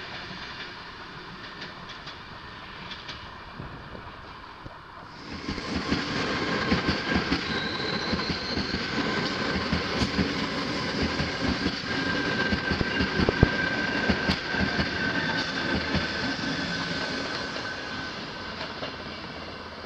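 Double-deck electric commuter train passing close by: steel wheels rumbling and clacking over the rail joints, with a thin wheel squeal held through much of the pass. It is quieter at first, grows suddenly loud about five seconds in, and fades near the end.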